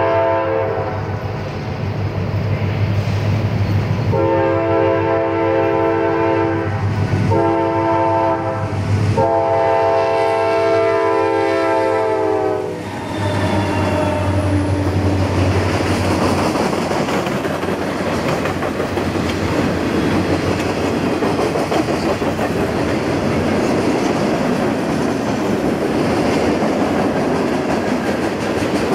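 Diesel freight locomotive's air horn sounding the grade-crossing signal, long, long, short, long, the first blast already ending as it begins, over the steady drone of the engines. About halfway through, the horn stops and the locomotives pass, and the freight cars roll by with a steady rumble and clickety-clack of wheels on the rails.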